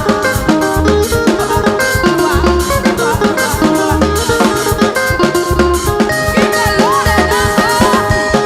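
Upbeat gospel praise band music with no singing: a drum kit keeps a steady beat under held melodic notes with some bending pitches.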